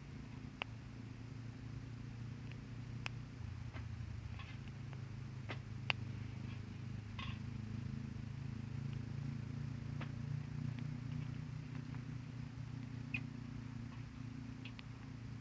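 Wood fire crackling, with sharp pops every few seconds over a steady low rumble.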